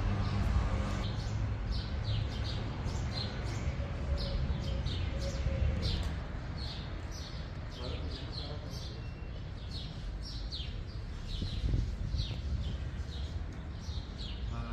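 Small birds chirping, many short high chirps several times a second, over a steady low rumble.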